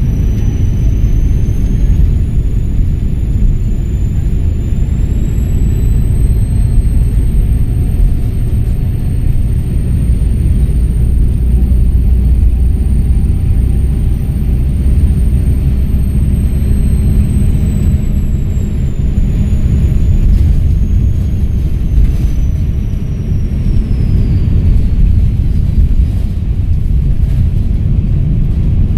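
Volvo B7RLE bus's diesel engine pulling under load, with a heavy low rumble and a high turbocharger whistle. The whistle climbs over the first few seconds, holds steady, then drops away in pitch about two-thirds of the way through as the engine comes off load.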